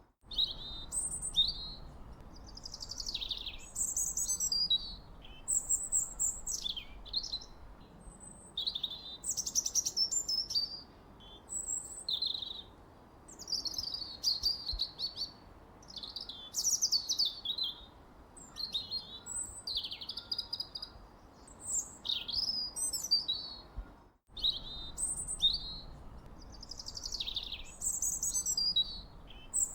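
Songbirds singing: a continuous run of quick, varied chirps, whistles and trills in short phrases, over a faint steady background hiss. The sound cuts out for a split second about 24 seconds in.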